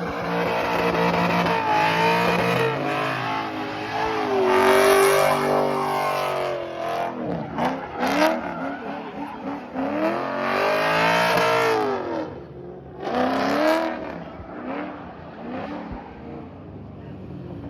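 Car engines revving hard, their pitch rising and falling in several swells, with a sharp crack about eight seconds in. The sound grows quieter near the end.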